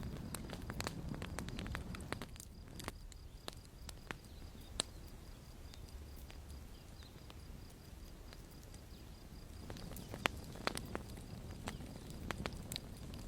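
Campfire crackling: irregular sharp snaps and pops of burning wood over a low rumble of flames, with a louder single pop about five seconds in and another about ten seconds in.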